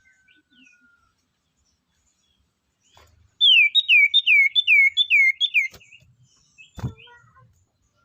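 A bird calling: a quick series of seven loud, clear whistled notes, each sliding downward, about three a second, followed by a short low thump.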